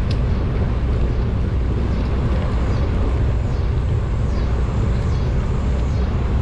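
Wind buffeting the microphone of a bicycle-mounted camera while riding at about 18 mph, a steady deep rumble, with a faint high whine that wavers a few times in the middle.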